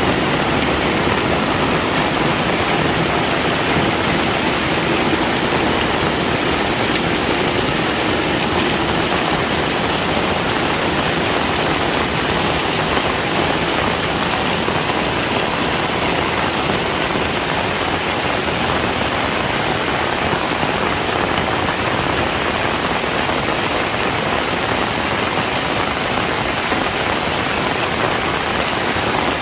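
Heavy rain falling steadily on surfaces, a dense, even hiss of drops at a constant level.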